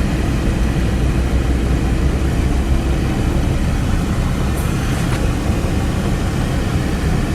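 Steady, low vehicle rumble of engine and road noise, with a faint tick about five seconds in.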